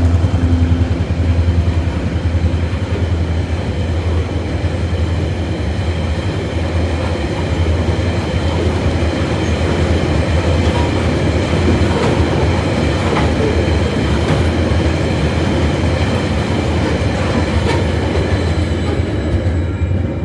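Freight train of coal hopper wagons rolling past: a steady rumble of steel wheels on the rails with repeated clicks over the rail joints. It eases off right at the end as the last wagon goes by.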